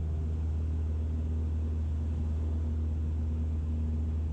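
Cessna 172's piston engine and propeller running at climb power in a steady, low drone just after takeoff.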